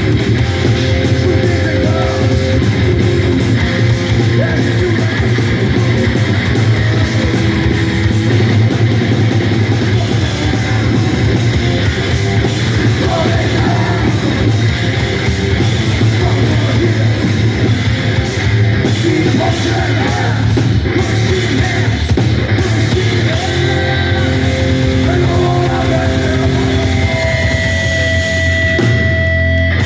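Live rock band playing loudly, with distorted guitars and drums.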